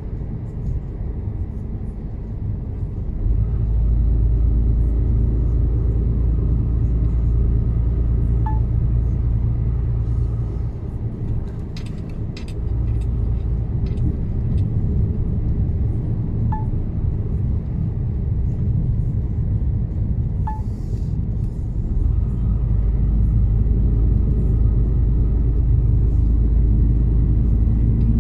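Mercedes-Benz Actros truck's diesel engine and road noise heard from inside the cab on the move: a steady low rumble that gets louder a few seconds in, eases briefly partway through, then rises again near the end. Three faint short chirps sound a few seconds apart over it.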